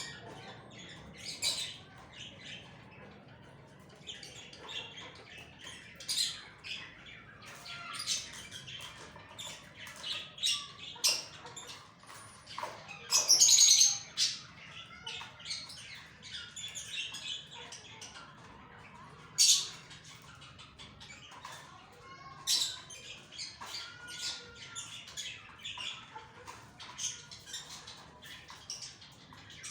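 Kept birds chirping and squawking in many short, high calls, with a louder burst of squawks about halfway through and another sharp squawk a few seconds later.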